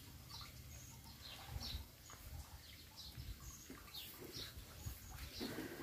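Faint bird chirping: short, high, slightly falling chirps repeating every half second or so.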